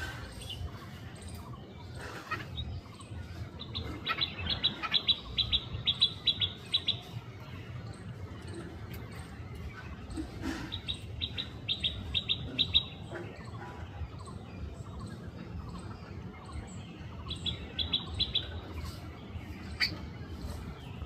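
Rufous treepie calling in three bursts of rapid, high repeated notes, one about four seconds in, one about ten seconds in and one near the end, over a steady low rumble.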